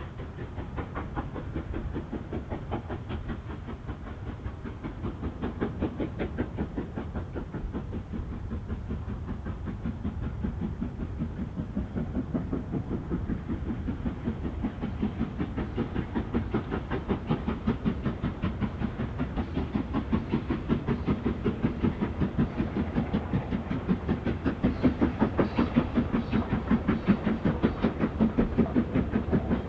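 Steam locomotive working hard, its exhaust beats in a steady, quick rhythm of about three to four a second, growing steadily louder as it draws nearer.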